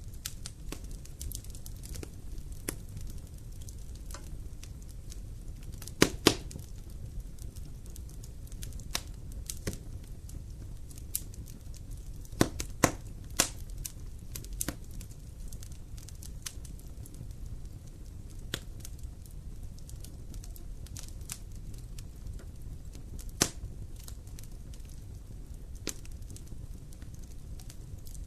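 Campfire burning: wood crackling with irregular sharp pops and snaps over a steady low rumble of the flames. The loudest snaps come about six seconds in and in a cluster around twelve to thirteen seconds.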